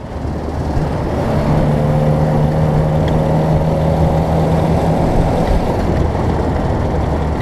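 1968 Land Rover Series IIA on the move, its engine and drivetrain giving a steady drone with a steady whine over it.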